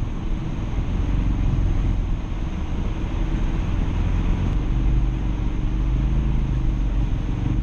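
Ford Focus RS's turbocharged four-cylinder engine running in a low gear under load, its pitch wavering, over a heavy, steady rumble from the car ploughing through deep unplowed snow.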